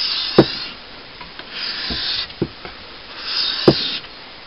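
Knife blade being drawn across a wet Japanese water stone: three rasping sharpening strokes about a second and a half apart, with a sharp knock during the first and the last.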